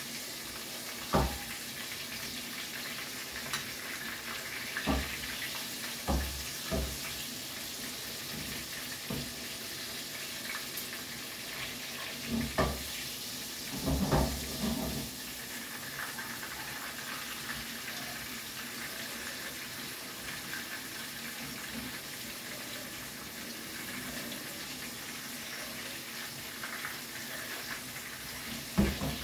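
Battered tempura frying in hot oil in a pan, a steady sizzle, with several short clicks and knocks of metal tongs against the pan.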